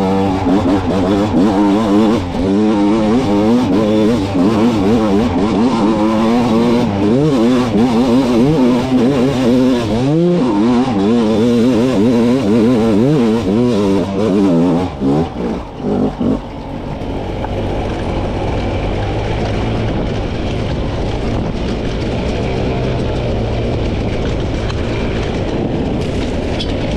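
300cc two-stroke dirt bike engine revving up and down rapidly and repeatedly under throttle. About sixteen seconds in it settles into a steadier, lower sound.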